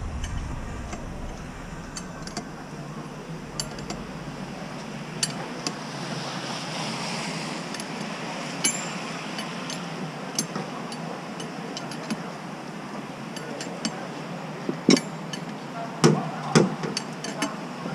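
Mini excavator at work: a steady machine noise with scattered sharp metallic clinks and knocks, which grow louder and come closer together about fifteen seconds in.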